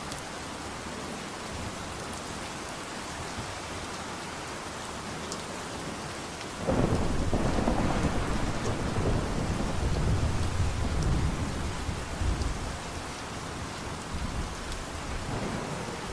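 Steady rain falling, with a rumble of thunder that breaks in suddenly about six and a half seconds in, lasts around six seconds and dies away, with a fainter swell of rumble near the end.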